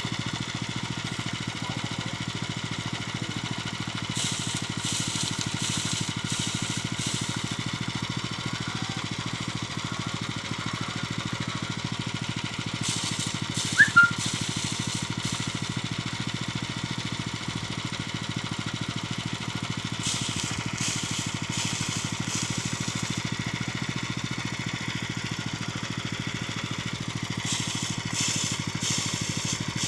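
Homemade rice thresher running steadily on its small engine, with a hiss that swells and fades every several seconds. A brief sharp squeak or clink stands out about halfway through.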